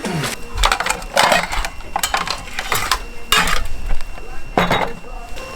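Irregular clattering and clinking of dishes and gear being cleared away, a quick run of sharp knocks with a few soft voices among them.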